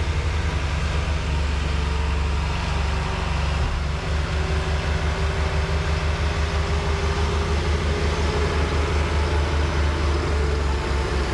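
Engine idling steadily with a low, even throb.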